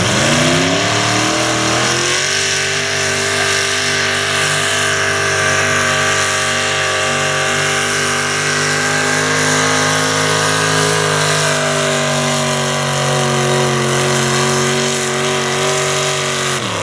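Super stock two-wheel-drive pulling truck's engine pulling the sled. It revs up over the first two seconds, runs at high revs held nearly steady under load down the track, and lets off abruptly at the end.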